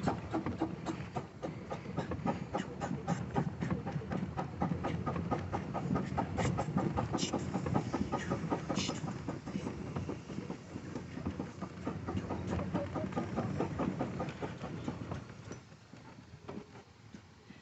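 Old tractor engine running with a rapid, even beat, fading away about fifteen seconds in.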